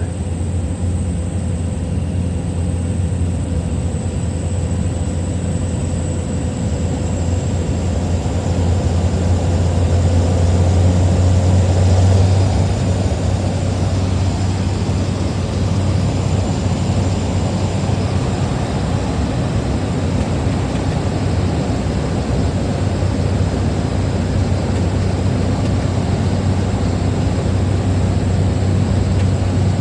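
Small plane's propeller engine droning steadily, heard from inside the cabin; it swells a little and eases slightly about twelve seconds in.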